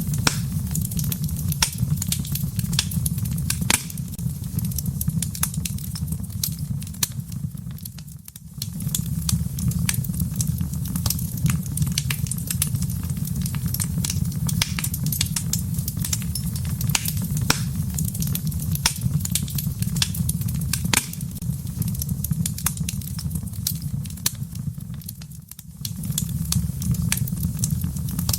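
Wood fire crackling in a fireplace: frequent sharp pops and snaps over a steady low rumble of the flames. The rumble briefly fades twice.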